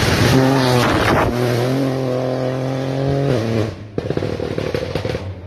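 Rally car engine at high revs: the pitch dips briefly about a second in, holds high and steady, then falls away as the driver lifts off about three and a half seconds in, followed by a rapid rattle of short pops.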